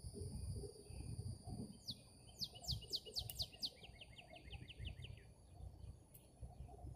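A bird singing a rapid run of about a dozen short, sharp notes, each falling in pitch, starting about two seconds in and ending about halfway through. Under it is a faint low rumble, and early on a thin, steady high-pitched whine fades out.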